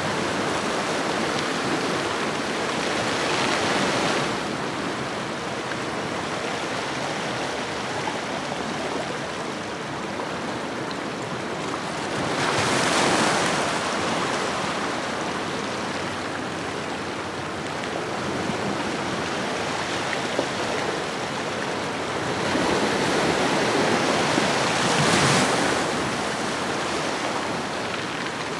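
Ocean waves washing onto a shoreline: a continuous surf hiss that swells as a wave breaks, about 3 seconds in, again near the middle, and at its loudest near the end.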